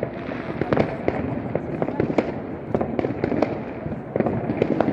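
Fireworks and firecrackers going off in quick, irregular succession: many sharp bangs and cracks, closely spaced and overlapping, with no pause.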